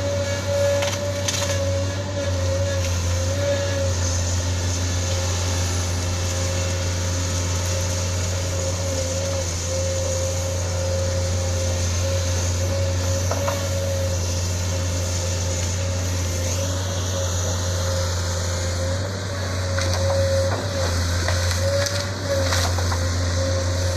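Sunward SWE210 excavator's Isuzu 6BG1 six-cylinder diesel running steadily, with a steady whine over the low engine drone. A few short knocks or cracks come through, once about a second in and several near the end.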